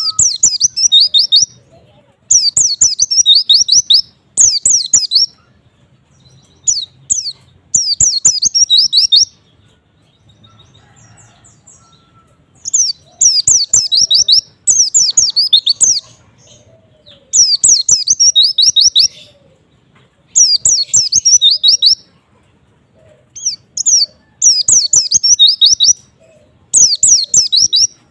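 White-eye (pleci) singing: loud, high, rapid twittering phrases of about one to three seconds each, repeated again and again with short pauses between them.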